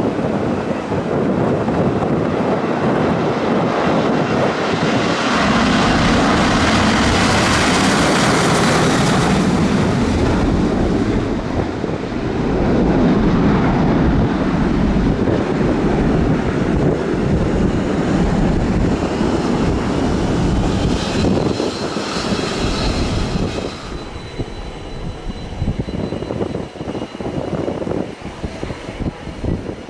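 Airplane engines passing close: a loud, even rushing noise that swells to its loudest about eight seconds in, stays loud, and drops away after about 24 seconds.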